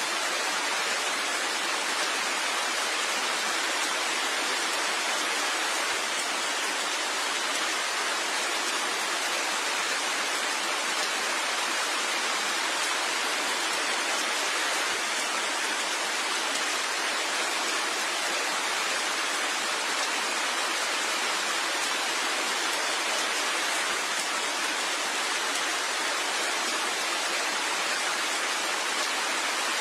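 Steady rain falling as an even, constant hiss, with no single drops standing out.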